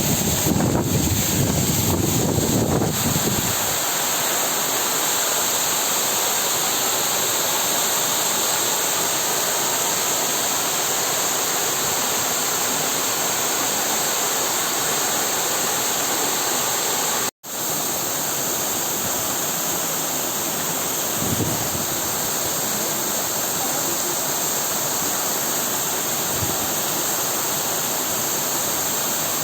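Waterfall and river water rushing steadily. Wind buffets the microphone for the first few seconds, and the sound cuts out for a split second about two-thirds of the way through.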